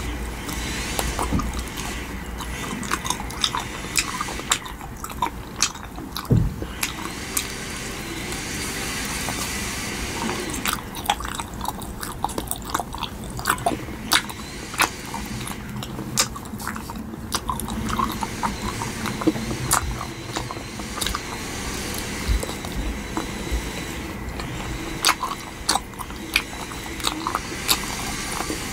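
Biting and chewing a hamburger-shaped gummy jelly candy: many short mouth clicks and smacks at an irregular pace.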